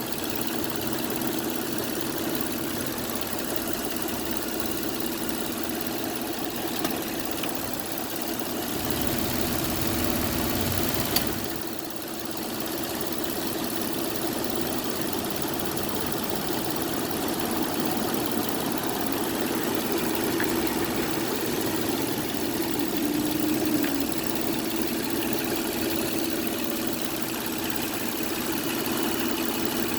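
An engine running steadily at idle, with one sharp click about eleven seconds in.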